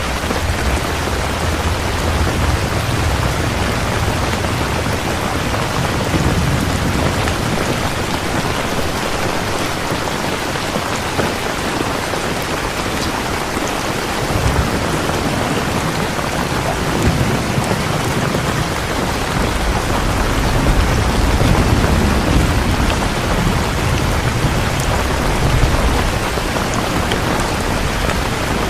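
Steady heavy rain falling, with a low rumble of thunder rolling in the first few seconds and again through most of the second half.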